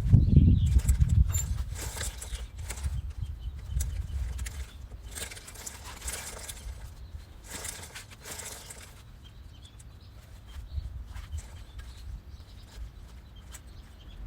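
Irregular knocks, taps and rustling of hand work, with a low thump at the start.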